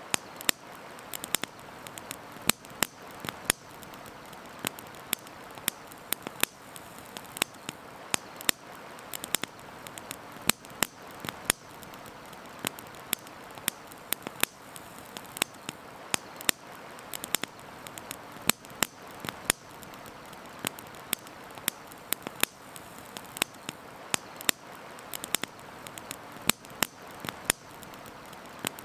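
Campfire crackling: irregular sharp pops and snaps, several a second, over a steady hiss.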